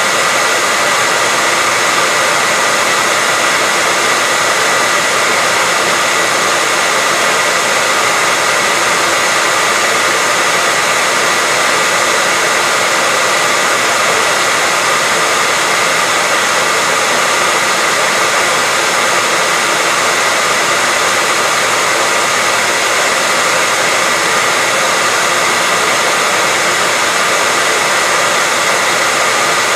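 Hair dryer running steadily: an even rush of blowing air with a steady high whine through it.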